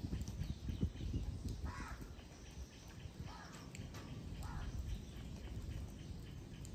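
A bird giving three short calls, spaced a second or more apart, over a low steady rumble.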